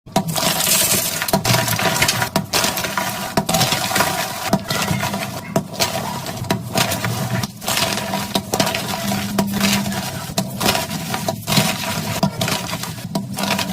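Blocks of gym chalk being crushed and crumbled, a continuous crunchy crackling made of many small sharp cracks.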